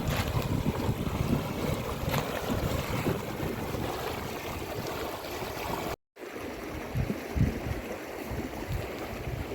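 Wind buffeting the microphone over the steady rush of a flowing river, cut off for a moment about six seconds in.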